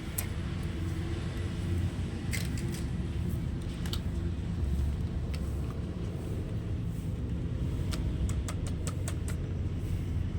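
A steady low mechanical hum with scattered sharp clicks and rattles, several of them close together near the end.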